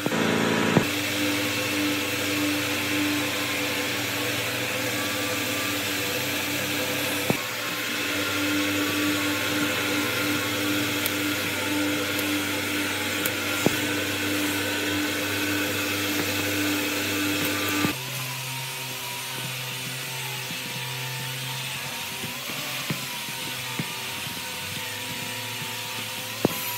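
Electric power tool running steadily under a motor's even whine. About 18 s in its pitch and load change and it turns quieter, with a slightly wavering tone, and there are a few sharp clicks.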